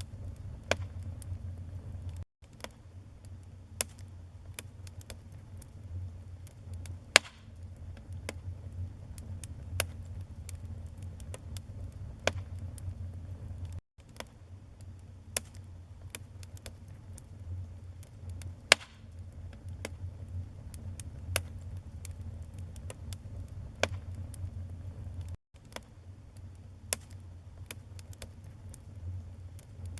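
Wood fire burning in a fireplace: irregular crackling with a few louder pops over a steady low rumble. The sound drops out for an instant three times, about every eleven and a half seconds.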